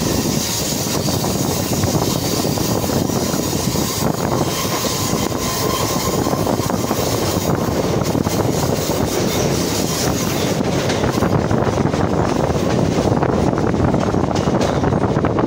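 Chennai MRTS electric suburban train running at speed, heard from its open doorway: a steady, loud noise of wheels on rails and rushing air.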